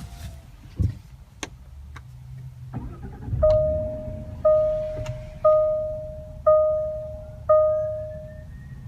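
Car warning chime: five identical single tones about a second apart, each struck and fading, over a steady low rumble. A few sharp clicks come before it.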